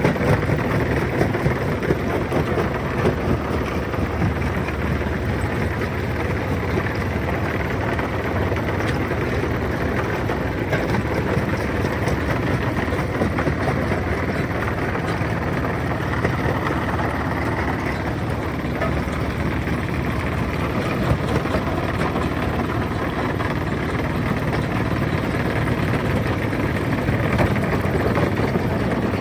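Heavy stone-crushing machinery running steadily: a dense, continuous mechanical noise with small irregular clatters through it.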